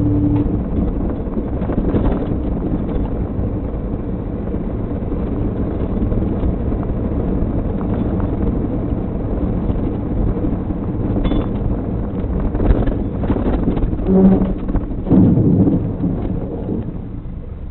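Steady road and engine noise of a moving car, heard through a low-quality dashcam microphone, with several louder knocks and thumps about twelve to sixteen seconds in.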